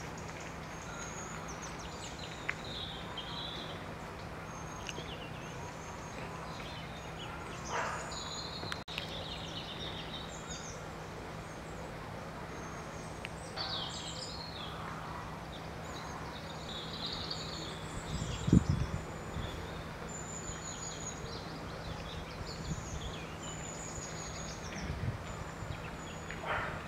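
Small birds calling and chirping on and off over outdoor background noise and a steady low hum. A single low thump comes about two-thirds of the way through.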